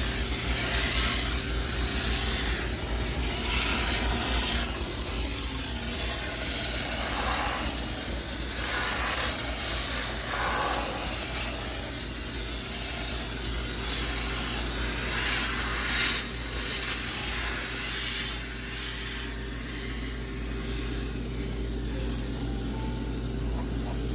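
High-pressure steam cleaner hissing as it sprays steam for sterilization, a steady hiss over a constant low hum, with a few brief louder spurts.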